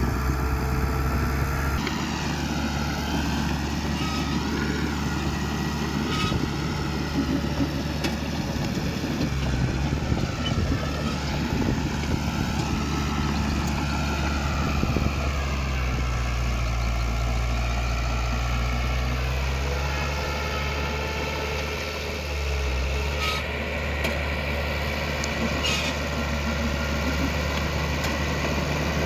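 Diesel engines of heavy earthmoving machinery running, a steady low drone with a higher whine that wavers up and down. Two short sharp clanks come a few seconds before the end.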